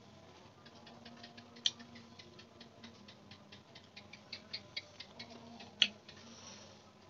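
Chewing a mouthful of fried chicken and rice: a quick run of small mouth clicks and smacks, about five a second, with two sharper clicks, one about a second and a half in and one near six seconds.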